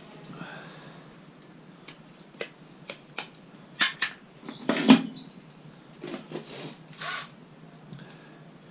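Metal scrap being handled: scattered sharp clinks and knocks, with a cluster of louder clatters about four to five seconds in and a few short scrapes after.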